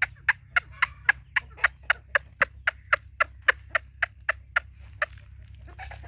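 Partridge (teetar) calling a rapid run of short, sharp notes, about four a second, that stops about five seconds in.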